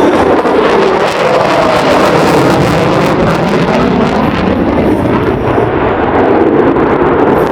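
Aircraft engine noise, loud and steady, with slight slow shifts in pitch as it passes.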